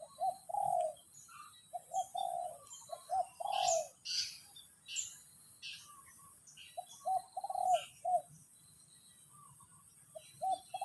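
A dove cooing in short phrases of a few low notes, repeated about four times with pauses between. Other small birds chirp in the middle, over a steady high-pitched hiss.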